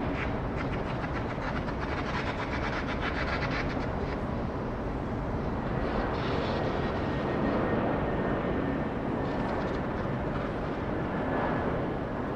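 Steady rumble of jet airliner engines carrying across the airport.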